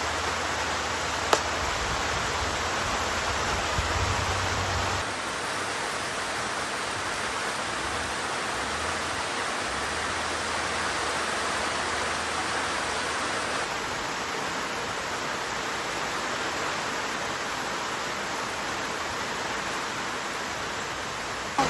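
Steady rain falling, heard as a dense, even hiss.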